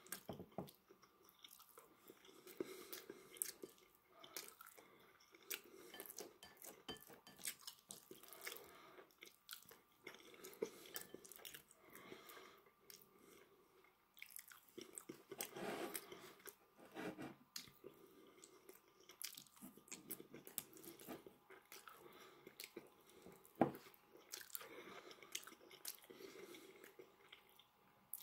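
Quiet close-up chewing and biting of a person eating rice and meat with wooden chopsticks. Irregular wet mouth noises mix with scattered sharp clicks and taps, one louder click a little past the two-thirds mark.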